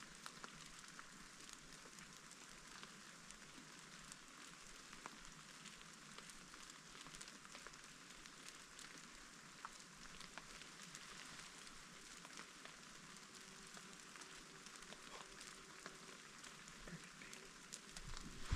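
Steady light rain falling, a faint even hiss dotted with the ticks of single drops, and a low thump at the very end.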